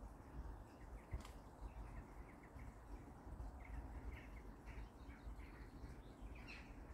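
Small birds chirping faintly in quick runs of short chirps, busier in the second half, over a low steady background rumble. A single brief click about a second in.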